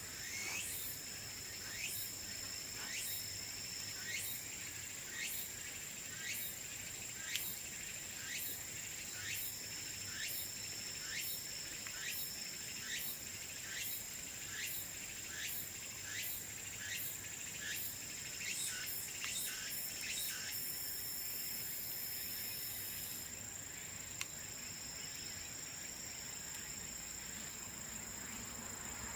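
Insects trilling steadily on two high notes. Over the first two-thirds, a high call sweeps down in pitch about one and a half times a second, then stops.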